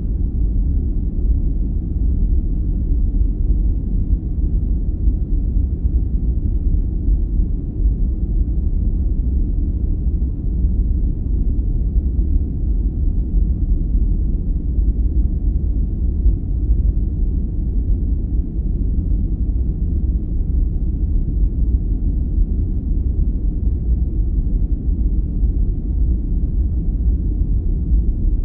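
Sleep-aid noise, a steady deep rumble with no hiss or treble, like brown noise; it does not change.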